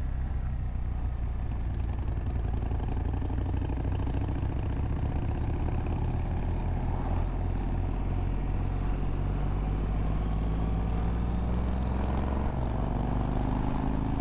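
Motorcycle engine running at an easy, steady pace, its note rising as it accelerates in the last few seconds.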